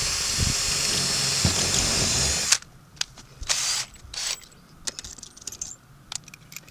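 Cordless drill running steadily for about two and a half seconds as it drives a screw into the skylight's flange, stopping abruptly, followed by a few light clicks and knocks of handling.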